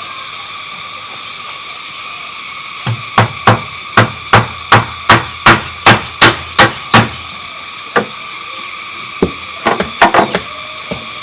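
Hammer blows on bamboo: a steady run of about a dozen sharp strikes, roughly three a second, then a few scattered knocks near the end. A steady high-pitched drone runs underneath.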